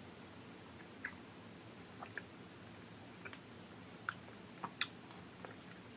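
A child chewing soft raw salmon with her mouth closed, quietly. A handful of short, faint wet clicks and smacks are spread irregularly through it.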